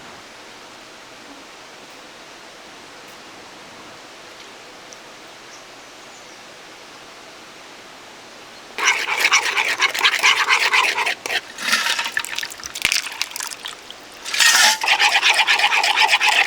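Steady rush of a mountain stream, then from about the middle loud bursts of water pouring and splashing, with a pause before a last burst near the end.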